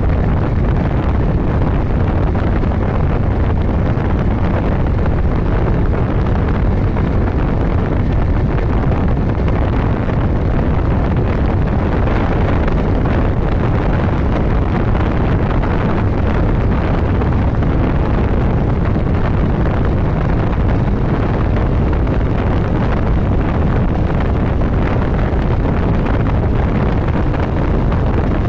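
Steady wind rush on the microphone of a motorcycle at road speed, with the bike's engine and road noise running underneath.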